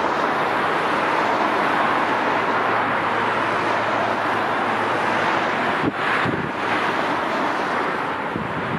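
Steady roar of a jet airliner's engines, with a faint low hum under it. A few brief wind gusts knock on the microphone about six seconds in.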